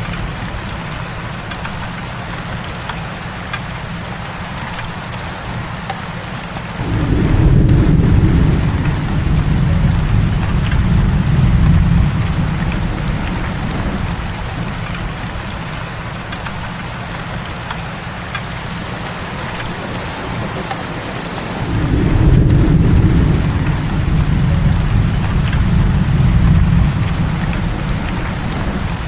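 Heavy rain falling steadily, with two long low rumbles of thunder about fifteen seconds apart, each starting suddenly and lasting about seven seconds.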